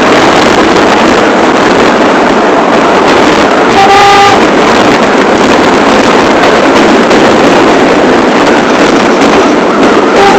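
A New York City subway train running at speed, a loud steady rush of wheel and rail noise, with a brief steady tone about four seconds in.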